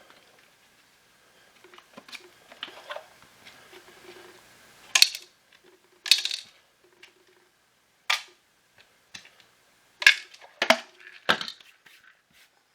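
Hard plastic vacuum-cleaner parts and small screws being handled by hand during disassembly: a string of sharp clicks and clatters, with quieter fumbling between them and a close run of three knocks near the end.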